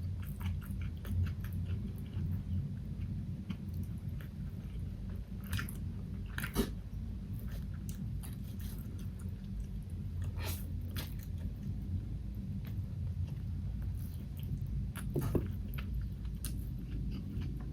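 Close-miked chewing and biting of food, with many small wet clicks and a few sharper crunchy bites, over a steady low hum.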